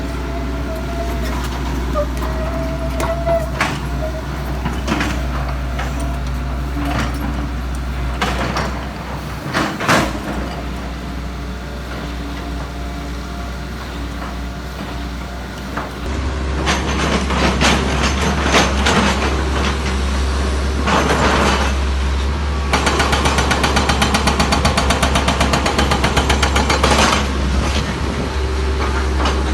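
Heavy diesel machinery running at an excavation site, with a steady deep engine hum. The sound grows louder about halfway through, and later a rapid rhythmic clatter comes in for a few seconds.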